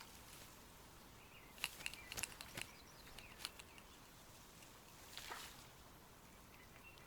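Faint outdoor quiet, with a few light clicks and short high chirps in the first half and a soft rustle later on.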